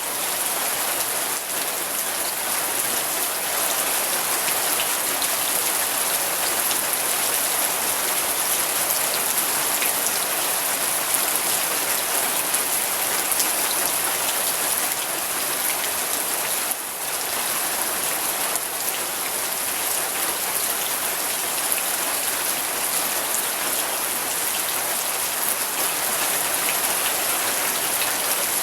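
Steady rain falling, a dense, even hiss of many drops. It dips briefly a little past halfway.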